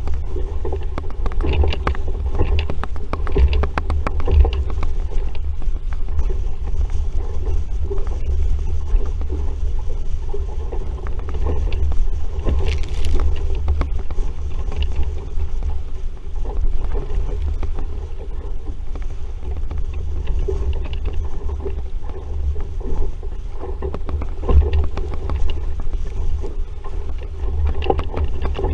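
Wind buffeting the microphone in a constant low rumble, with water splashing and slapping irregularly against an RS Vareo sailing dinghy's hull as it sails in a strong breeze.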